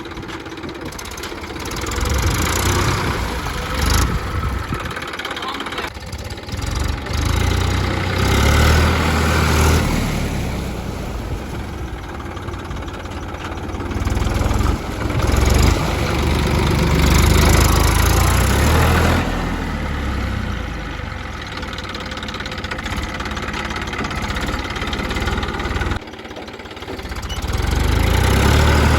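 Mini tractor engine running, its level rising and falling repeatedly as it works.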